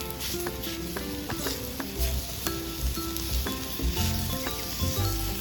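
Hamburger patty sizzling in a pan over a campfire, a steady frying hiss. Background music plays over it: short plucked melody notes, with a bass line coming in about two seconds in.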